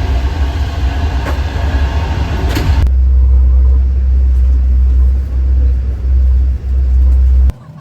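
Train running, heard from on board: a loud, steady rumble. About three seconds in it changes abruptly to a deeper, heavier rumble, and it cuts off suddenly near the end.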